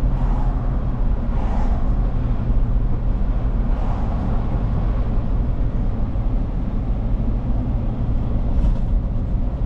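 A car driving at low speed, its engine and road noise a steady low rumble.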